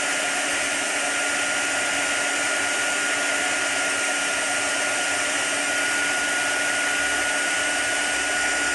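Craft heat gun blowing hot air, a steady rushing with a thin high whine, used to soften glue on a glued-on piece.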